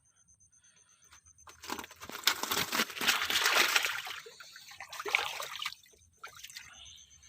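Water splashing and sloshing for about four seconds, starting about a second and a half in, as the night's catch of fish is handled in the reservoir water, with a few smaller splashes and drips near the end.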